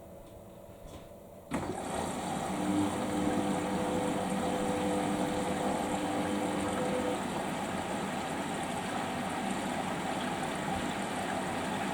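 Water suddenly starts rushing through a Samsung washing machine about a second and a half in, then runs on steadily with a faint hum underneath.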